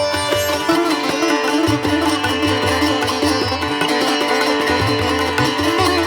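Background music in an Indian classical style: a plucked string melody, sitar-like, over a steady drone, with low drum beats.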